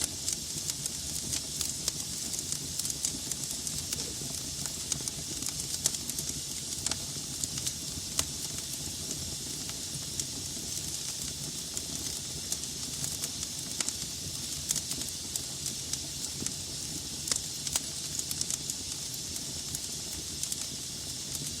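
Wood fire burning in a fireplace: a steady hiss and low rumble of the flames, with frequent irregular crackles and pops from the burning logs.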